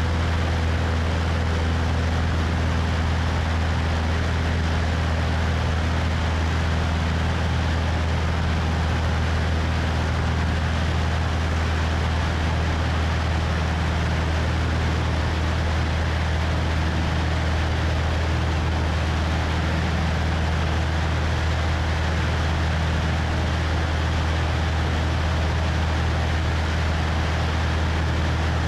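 Cessna 172's piston engine and propeller droning steadily in flight, with an even rush of wind noise over the wing-mounted microphone.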